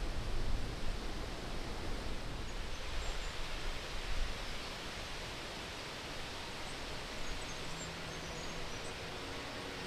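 Steady outdoor rushing noise, like wind or rustling, with some low rumbling bumps in the first few seconds that settle into an even hiss; a few faint high chirps, and no engine heard.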